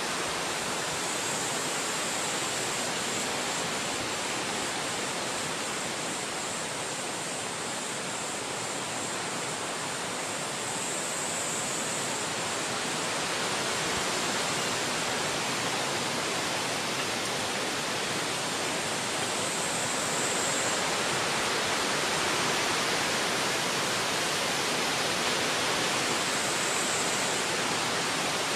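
Wind blowing through forest trees, a steady rushing noise that grows a little louder in the second half, with a few brief high hissing spells.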